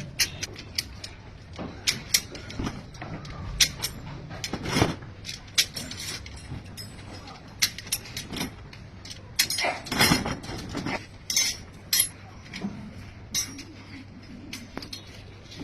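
Steel reinforcing bars being tied with binding wire: irregular sharp metallic clicks and clinks, with a denser run of noise near the middle.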